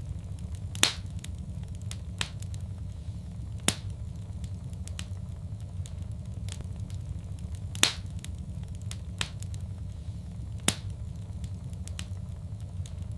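Fireplace fire crackling over a steady low rumble, with scattered sharp pops. The loudest pops come about a second in and about eight seconds in.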